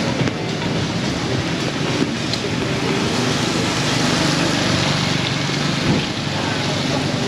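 Heavy tropical rain pouring down steadily, a dense, even hiss, with the low hum of a vehicle engine underneath.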